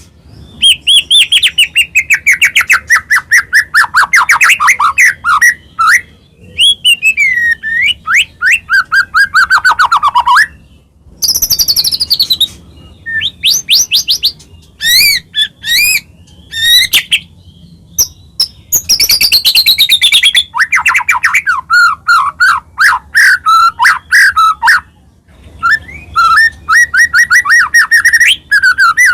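White-rumped shama singing in full song: long, varied phrases of rapid repeated notes and falling whistles, broken by a few short pauses.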